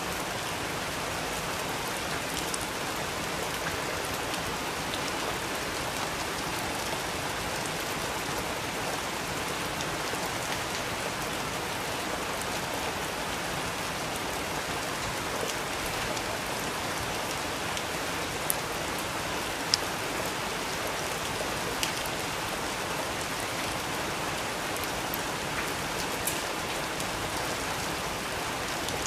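Steady rain falling, an even hiss, with a handful of sharp ticks in the second half.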